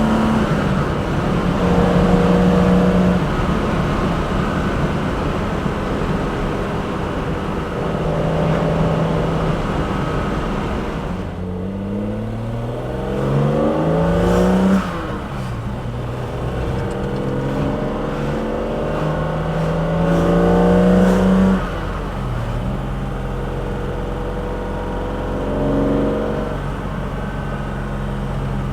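BMW S38B36 3.6-litre straight-six breathing through individual throttle bodies, with loud induction and exhaust noise under hard acceleration. The revs climb steeply and fall off sharply at a shift, once about halfway through and again about two-thirds in, with steadier running between.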